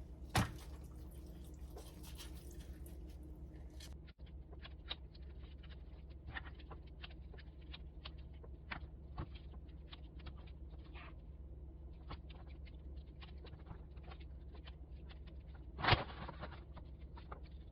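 Knife cutting a raw catfish fillet into chunks on a cutting board: irregular light taps and clicks of the blade, with a sharper knock about sixteen seconds in. A low steady hum runs underneath.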